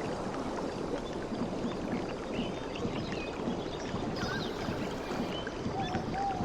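Sea water lapping and washing steadily, with many small splashes. A few faint short chirps come through it, with a brief held whistle near the end.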